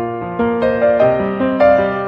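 Background piano music: a gentle melody, with notes struck a few times a second that ring and fade.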